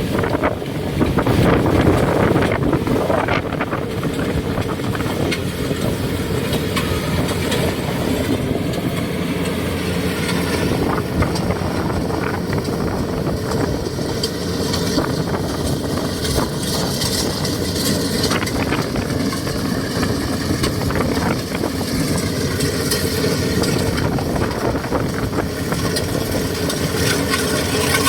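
Kubota DC70G rice combine harvester running steadily under load, its diesel engine and threshing machinery making a continuous dense drone.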